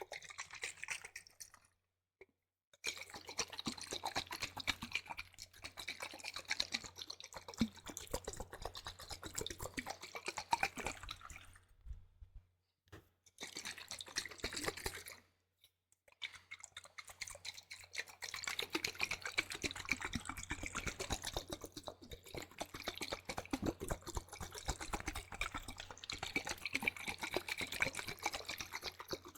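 Liquid handled in a container close to the microphone: a dense, continuous crackle of small wet clicks and drips, cutting out briefly a few times.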